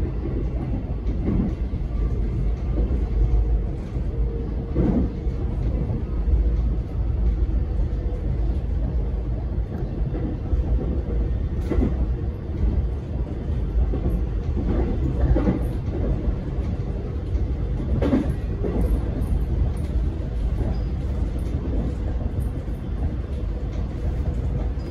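Alstom X'Trapolis electric multiple-unit train running along the line, heard on board: a steady, heavy rumble with a few scattered knocks.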